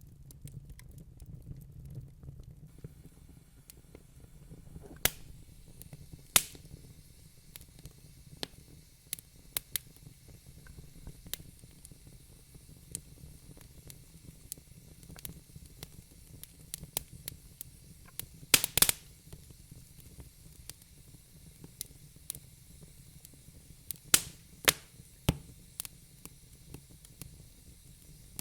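Wood fire burning in a fireplace, crackling with irregular sharp pops and snaps over a low steady noise. A few loud pops come in a quick cluster about two-thirds of the way through, and more follow a few seconds later.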